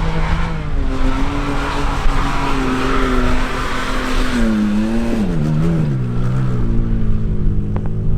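Off-road vehicle's engine revving hard under load with its tyres spinning and digging into loose dirt, then the revs fall away about halfway through and it settles to a lower steady run.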